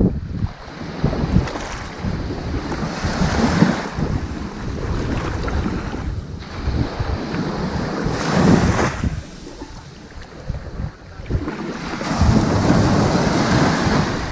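Ocean waves breaking and washing up a sandy beach, a rushing noise that swells and ebbs, with three surges about four seconds apart. Wind buffets the microphone.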